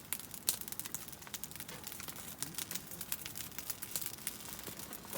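Fire crackling: an irregular stream of small sharp ticks and pops.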